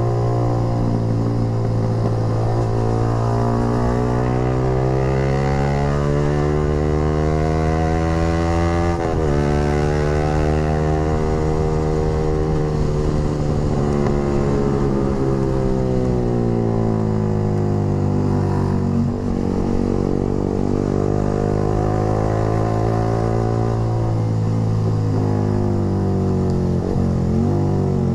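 Yamaha R15 V3's single-cylinder engine running through a Proliner short aftermarket racing exhaust under way, its pitch climbing and falling with speed, with brief dips about a third and two thirds of the way through.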